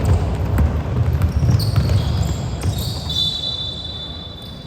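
Basketball bouncing on the court during play, a quick run of sharp thuds that thins out after about two seconds, with a thin high tone in the latter half.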